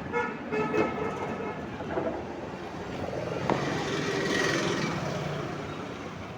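A motor vehicle passing on the road, its noise swelling to a peak about four and a half seconds in and then fading.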